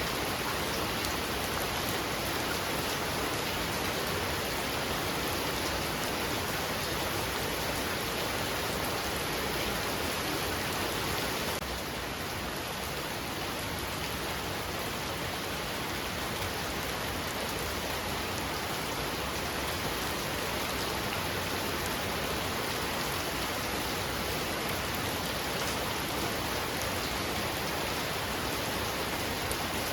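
Heavy rain falling steadily and densely, drumming on surfaces. A little quieter from about twelve seconds in.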